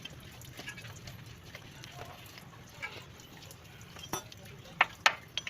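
A few sharp metallic clicks and clinks, coming close together from about two thirds of the way in, over a low steady hum.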